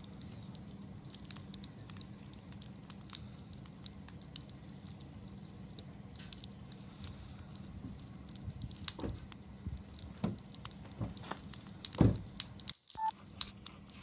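Wood campfire crackling, with scattered sharp pops and snaps that grow busier and louder in the second half, the loudest about twelve seconds in.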